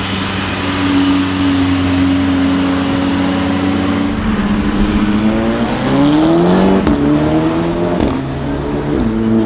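A modified car's engine holding a steady note, then accelerating hard from about four seconds in, its pitch climbing, falling back once near eight seconds at a gear change and climbing again. Two sharp cracks cut through during the acceleration.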